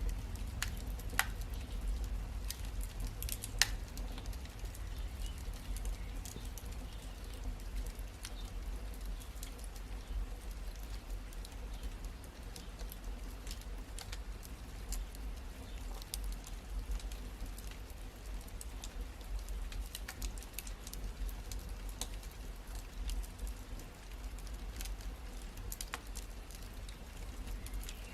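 Wood fire crackling in a fireplace: irregular sharp pops and snaps over a low steady rumble, with a few louder pops in the first few seconds.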